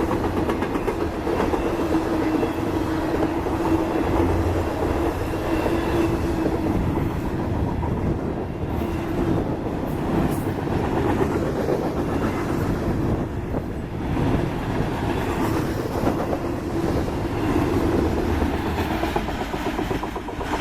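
Freight train cars rolling past: a steady rumble of steel wheels with repeated clickety-clack over the rail joints and a constant ringing tone.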